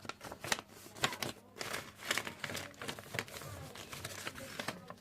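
A sheet of paper being folded and creased by hand: irregular rustling and crinkling with a few sharp crackles.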